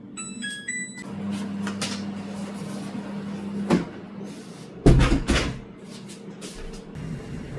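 A household appliance's short electronic beeps play a quick run of pitches, then a steady hum runs for a couple of seconds. It is followed by knocks and thuds of cupboard doors or similar, the loudest two close together about five seconds in.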